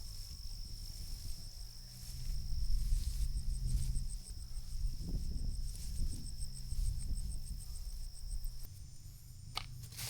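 Insects calling: a steady high-pitched buzz that stops near the end, overlaid with a faster high chirp pulsing about five times a second. A low rumble runs underneath, and there are a couple of sharp knocks near the end.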